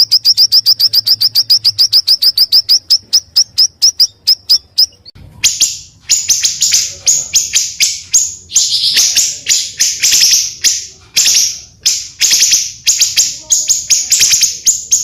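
Recorded song of small songbirds: a fast run of sharp, evenly repeated notes, about ten a second, for roughly five seconds. It then breaks into a dense, harsh chattering trill that runs to the end.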